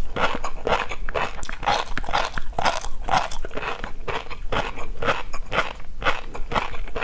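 Close-miked chewing of tobiko fish roe and crunchy seafood topping: a fast, unbroken run of small crunches, several a second.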